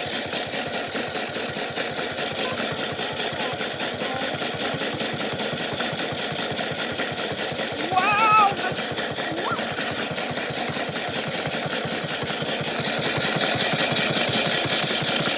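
Washing machine running with a big rock tumbling in the drum, making a steady, dense, rapid rattling and clattering. It grows a little louder near the end, and a short voice-like cry comes about halfway through.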